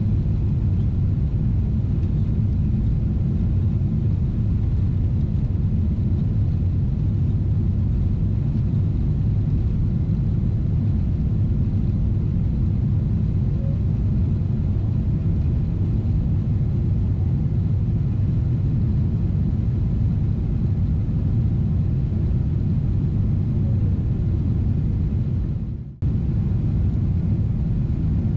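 Steady low rumble of a Boeing 777-300ER's GE90 jet engines and airflow, heard from inside the passenger cabin. It dips away briefly near the end and comes straight back.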